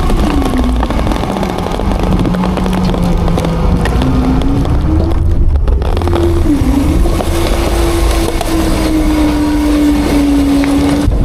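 Autocar-Heil Freedom front-load garbage truck's diesel engine running under hydraulic load, its pitch dropping about a second in, rising again after a short lull near the middle, then holding steady and higher.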